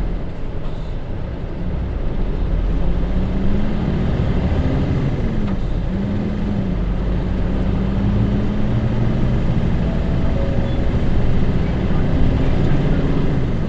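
Hino J07E diesel engine of a city bus, heard from inside the cabin, pulling under load: its whine climbs, falls sharply about five and a half seconds in as the DD5M manual gearbox changes up, then climbs again and holds steady.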